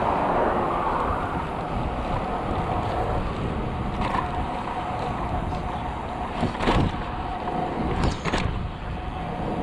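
Wind rushing over the microphone of a moving bicycle, with a faint steady tone under it. A few short sharp knocks come through, one about four seconds in and two louder pairs between six and a half and eight and a half seconds in.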